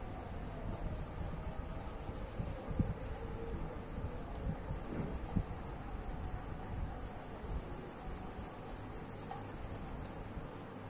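Colouring strokes rubbing quickly back and forth on paper in a steady rhythm, with a couple of soft knocks.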